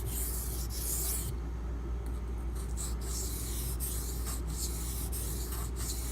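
Steel knife blade (8Cr13MoV) scraping back and forth across a coarse, hard Beston 500 grit water stone, about two strokes a second, with a pause of about a second shortly after the start. A steady low hum runs underneath.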